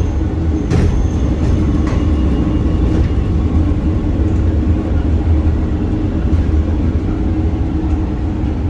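Inside an old-fashioned train carriage running on the rails: a steady low rumble, with a few sharp clacks about a second apart in the first three seconds.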